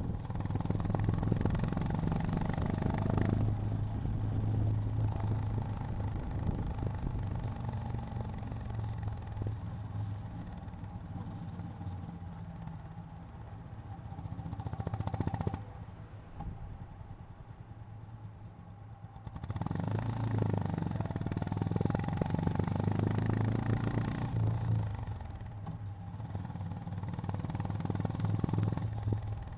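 Honda GB350's single-cylinder engine running on the road, pulling under throttle in a louder stretch at the start, then easing off. Past the middle it drops for a few seconds to a much quieter low-speed running, then pulls strongly again before easing off near the end.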